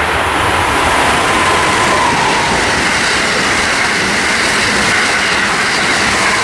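Amtrak Acela Express electric high-speed trainset passing through at speed: a loud, steady rush of wheels on rail and air, with a thin whine above it.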